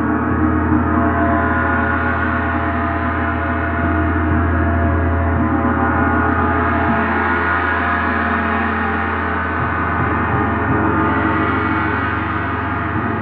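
A gong being played continuously in a sound bath: a steady, sustained wash of many overlapping ringing tones over a deep low hum, with no separate strikes standing out.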